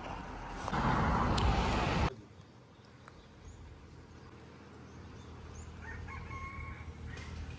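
A loud animal call lasting about a second and a half, which cuts off abruptly. It is followed by quiet, with a faint short call near the end.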